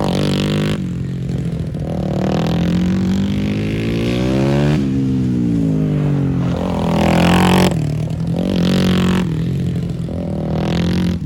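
Several small racing motorcycles on a circuit, their engines revving and changing gear as they ride past, with pitch rising and falling. One passes close about halfway through.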